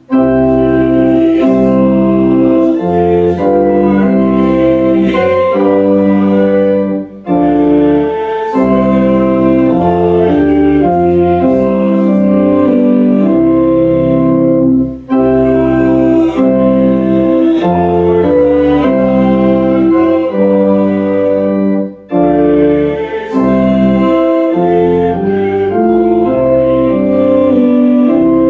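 Organ playing slow sustained chords in phrases about seven seconds long, with a brief break between phrases.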